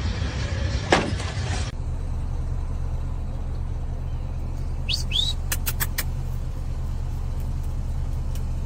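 Steady low rumble of a running vehicle, with a hiss over the first couple of seconds. Two short high chirps come about five seconds in, followed by a few sharp clicks.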